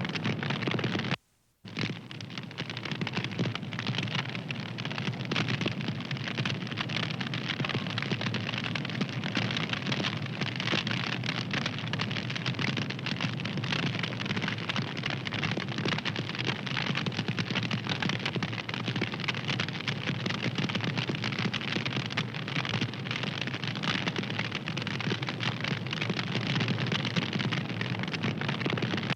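Wood fire crackling, a dense run of small pops over a steady hiss. It cuts out for a moment about a second in, then carries on.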